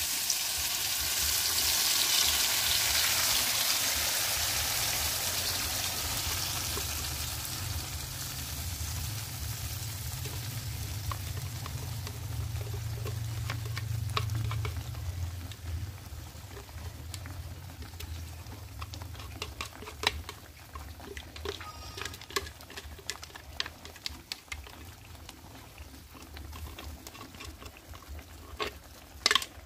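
Ground chilli-and-spice paste hitting hot oil in an aluminium wok and sizzling: loud at first, dying down steadily over the first half, then turning to scattered spitting pops and crackles as it sautés. A low rumble runs underneath.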